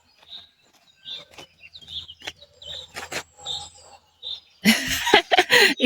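Small birds chirping, one short high call about every second, with a few sharp clicks between them. Near the end a person's voice comes in loudly.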